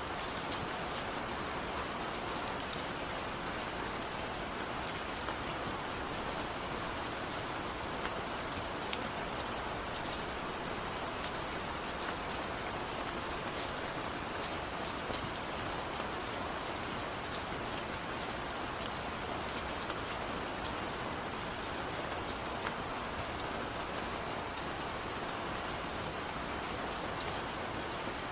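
Steady rain falling, with many separate drops ticking sharply on top of the even patter.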